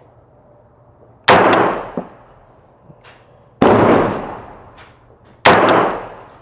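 Three loud, sharp shots from an airsoft ARP rifle, a couple of seconds apart, each ringing out and fading within about a second.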